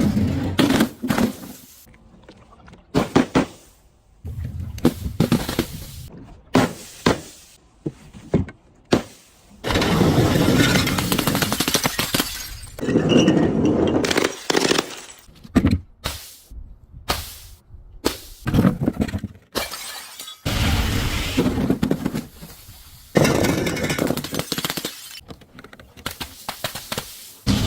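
Glass bottles and jars breaking one after another. There are many sharp smashes, then longer stretches of shattering and crunching glass lasting a second or two each.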